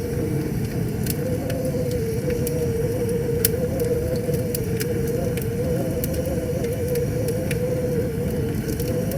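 Wood fire crackling with scattered sharp pops, over the steady low rush of a flowing river. A steady, slightly wavering tone runs underneath.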